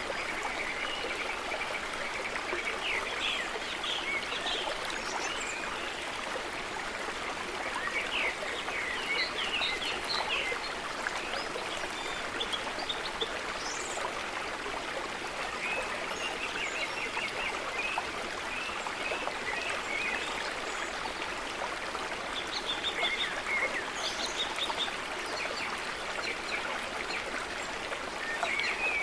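A stream running steadily, with birds chirping on and off over it.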